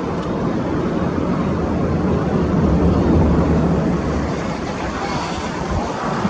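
Boeing 767-300ER jet engines rumbling low and steady. The rumble swells about three seconds in and eases off a second or so later.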